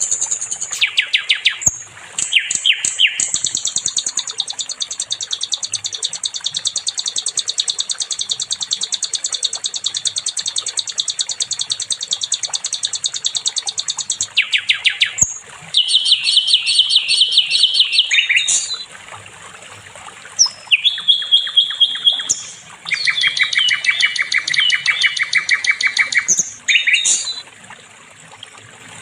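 Sikatan londo flycatcher singing: long runs of rapid, evenly repeated high-pitched notes, broken by a few short pauses and changes of phrase.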